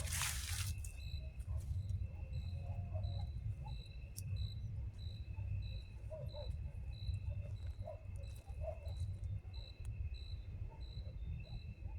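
Night insects: one cricket chirps evenly about twice a second over a steady, continuous insect trill, with a low rumble underneath and a brief rustling burst at the very start.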